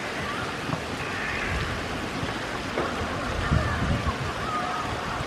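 Steady rain falling on wet pavement and grass, an even hiss, with a few low thumps about three and a half seconds in.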